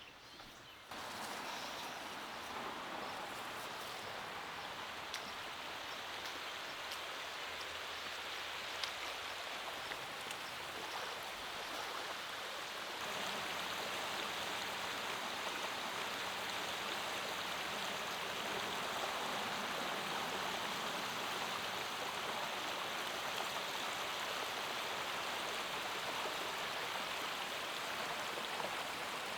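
Creek water flowing, a steady rush. It starts about a second in and grows a little louder about halfway through.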